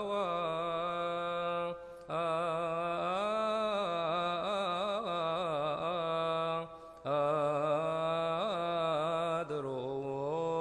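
A man's voice chanting Coptic liturgical chant in long melismatic phrases with wavering ornaments on held notes, breaking briefly for breath about two seconds in and again about seven seconds in.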